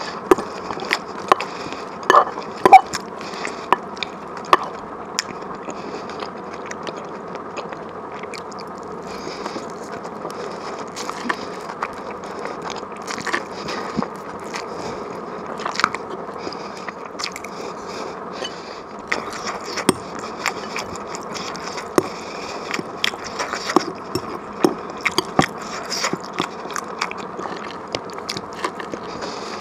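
Close-miked eating: chewing and biting, with irregular sharp crunchy clicks over a continuous mouth noise. The clicks are busiest in the first few seconds and again in the second half.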